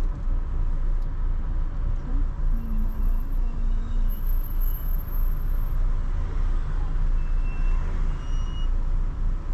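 Car driving through city traffic: a steady low rumble of engine and road noise.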